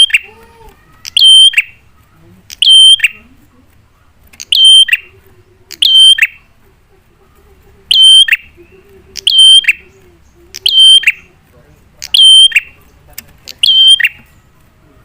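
Prinia (prenjak) calling over and over, about ten times, roughly once every one and a half seconds. Each call is a sharp two-part note: a brief steady high note followed by a quick drop in pitch.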